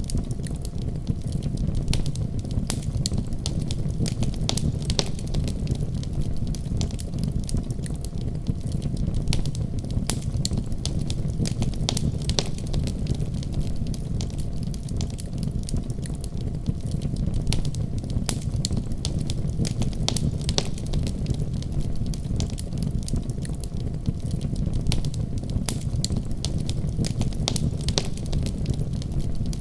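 Wood fire crackling in a fireplace: a steady low rumble of burning with many irregular sharp pops and snaps scattered throughout.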